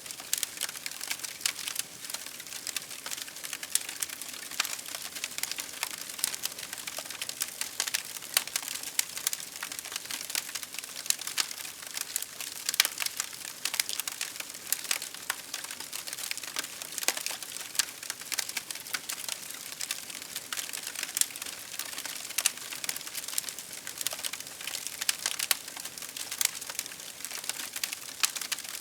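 Wood fire crackling steadily, with a dense run of sharp pops and snaps over a soft hiss.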